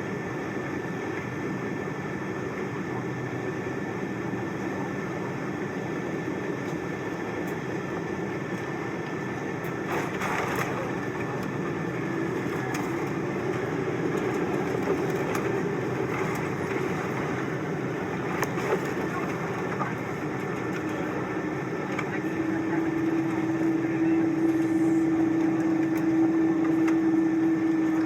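Cabin noise of a Boeing 777-200 airliner during landing: a steady rushing drone with a few knocks and rattles, and an engine hum that comes in and grows louder over the last several seconds.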